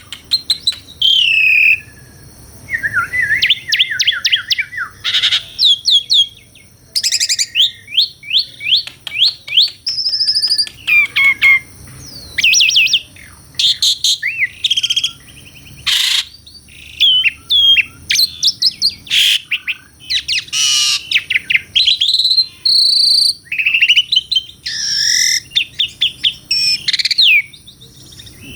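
Pied starling (jalak suren) singing a long, varied song: rapid runs of clicking, chattering notes mixed with sliding whistles and harsh chirps, with only brief pauses.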